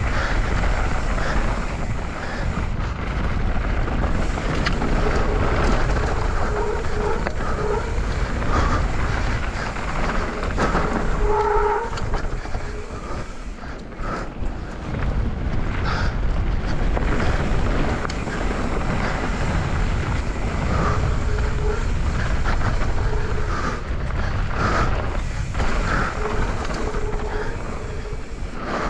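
YT Capra mountain bike ridden fast down a dirt trail: wind buffeting the helmet camera's microphone over the rumble of tyres on dirt and the bike rattling, with a few short squeaks now and then.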